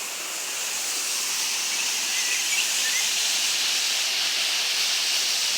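River water rushing, a steady hiss, growing slightly louder in the first second.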